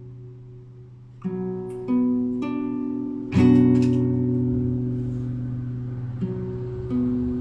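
Solo classical guitar improvising: a held chord fades, then single notes are plucked one after another and a loud full chord is struck about three seconds in and left to ring, with a few more plucked notes near the end.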